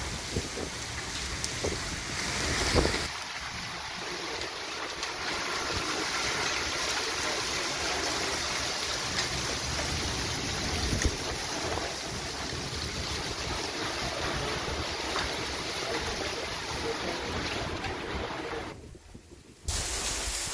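Heavy rain pouring down: a dense, steady hiss with wind on the microphone, briefly dropping out near the end.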